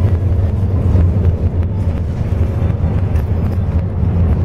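Bus engine and road noise heard from inside the moving bus: a steady, loud low rumble with a hiss of tyres and cabin noise above it.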